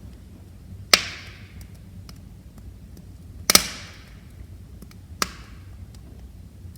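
Wood fire crackling: three sharp pops of burning wood, the loudest about halfway through, with faint small ticks between them over the fire's low steady rumble.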